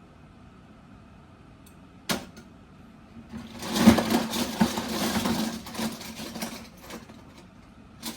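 Die-cast toy vehicles racing: a sharp click about two seconds in, then about four seconds of rolling and rattling of small metal-and-plastic toys, with a knock near the start of it.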